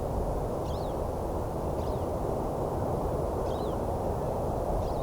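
Pine siskin flight-calling as it circles overhead: four short, faint, high calls that rise and fall, spaced about a second or so apart, over a steady low rushing background.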